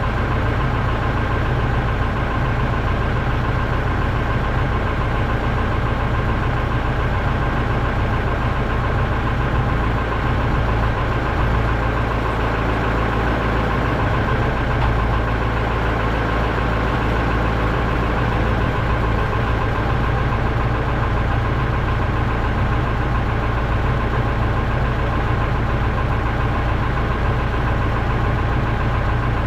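The Eager Beaver's engine running at steady revs, a deep, even drone with no change in pitch.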